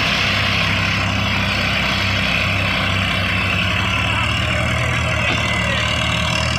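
Farm tractor's diesel engine running steadily, a low, even engine drone.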